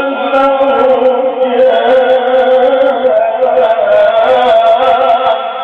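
A man's voice in melodic Quran recitation, holding one long drawn-out note whose pitch wavers in small ornaments, then fading out with a reverberant tail near the end.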